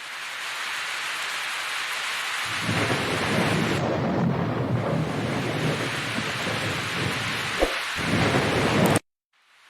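Hail and heavy rain pelting down in a dense, steady hiss, with a deeper drumming joining about two and a half seconds in. The sound cuts off abruptly near the end.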